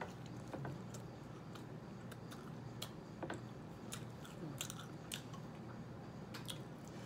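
Faint chewing and mouth noises of a person eating spaghetti, with small clicks and smacks scattered irregularly.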